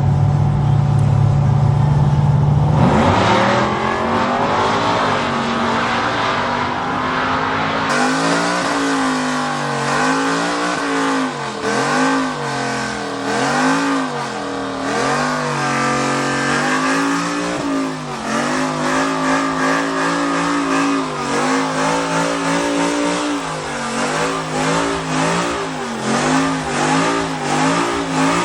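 A truck's engine revved hard again and again, its pitch climbing and falling every second or so. From about eight seconds in, a steady hiss runs under it, as of tyres spinning in a burnout.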